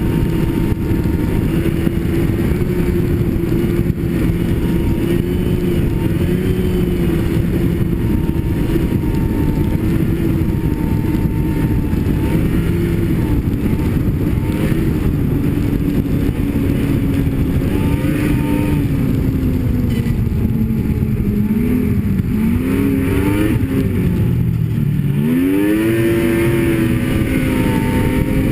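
Snowmobile engine running steadily at speed. Late on, the engine note drops twice as the throttle eases, then climbs sharply again as the throttle is opened.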